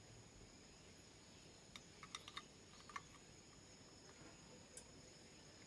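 Near silence with a faint steady high-pitched whine, broken by a handful of faint light clicks about two to three seconds in and one more near the end.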